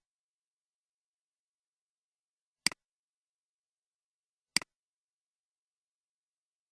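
Computer mouse button clicked twice, about two seconds apart, each click a sharp press followed at once by a fainter release.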